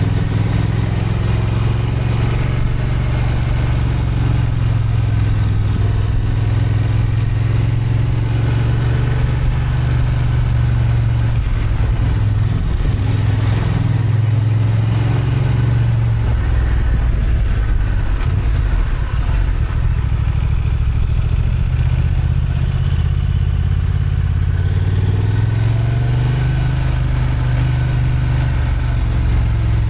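Honda XL750 Transalp's 35 kW-restricted parallel-twin engine pulling the motorcycle uphill, its note rising and falling with the throttle. The engine eases off for several seconds past the middle, then pulls again near the end.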